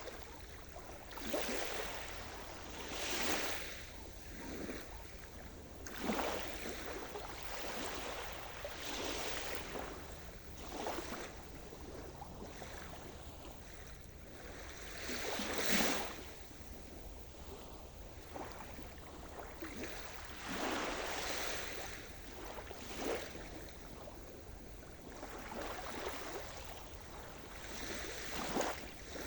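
Sea surf: small waves breaking and washing in, one swell after another every second or two, with the loudest wave about sixteen seconds in.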